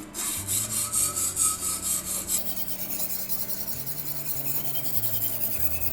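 Wet 220-grit silicon carbide stone rasping in quick back-and-forth strokes along the thin Sandvik 12C27 steel blade of an Opinel fillet knife, the stone driven by hand on a guided sharpening system.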